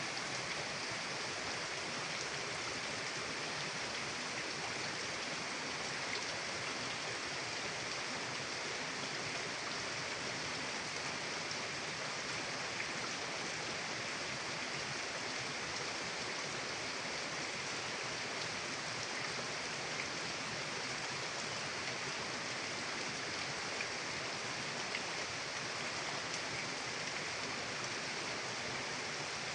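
Mountain river flowing, a steady rushing of water with no change.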